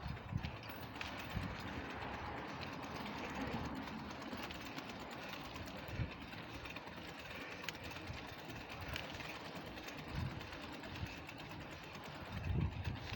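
A bicycle on the move: steady rushing wind and road noise, with scattered low knocks and a cluster of thumps near the end.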